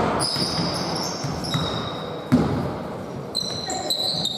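A basketball bouncing on a hardwood court during play, with the loudest bounce a little past two seconds in. Sneakers squeak on the floor at several points.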